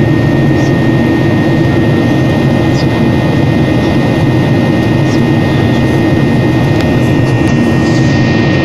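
Jet airliner engine noise heard from inside the cabin: a steady, loud rumble with a constant high whine above it.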